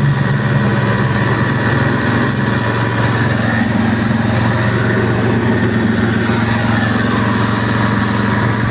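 Mitsubishi Galant's engine idling steadily.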